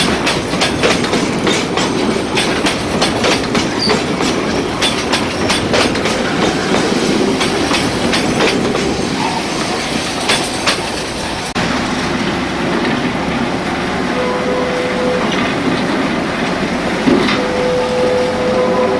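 A train running past, its wheels clicking rapidly over the rail joints. About two-thirds of the way through, the sound cuts abruptly to a smoother train sound, with a steady tone that comes and goes near the end.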